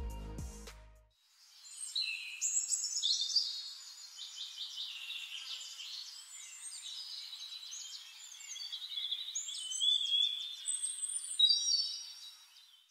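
Birdsong: several small birds chirping and trilling in quick high phrases, starting just after the end of a fading music track in the first second.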